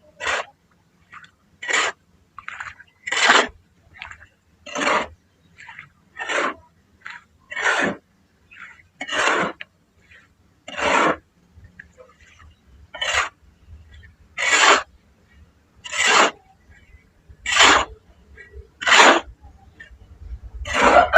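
Short crumbling crunches of a dry, grainy material, one about every second and a half, with fainter crackles between them.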